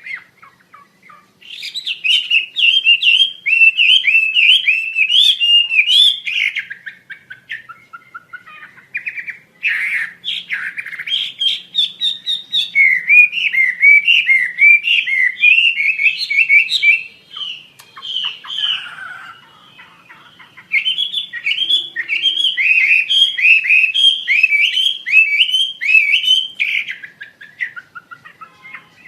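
Wambi (Asian fairy-bluebird) singing: long runs of quick, sharp chirping notes that swing up and down, broken by three short pauses.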